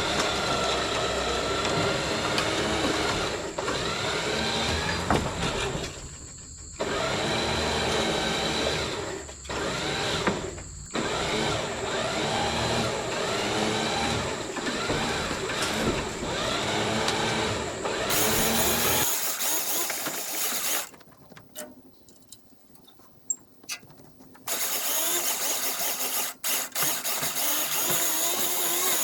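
Electric trailer winch running under load as it drags an antique tractor, its motor whine wavering with the strain. It stops briefly twice, goes near quiet for a few seconds later on, then runs again.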